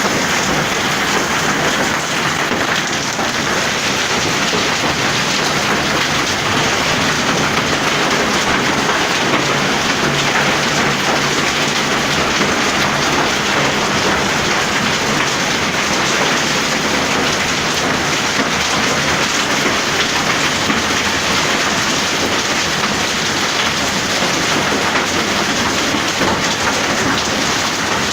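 Hailstorm: hail and heavy rain pelting down, a dense, steady patter of countless small impacts.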